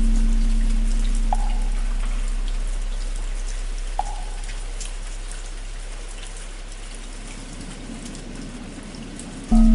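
Steady rain with a deep bell ringing out and slowly fading, struck again near the end. Two short, light wooden-fish knocks sound a few seconds apart in the first half.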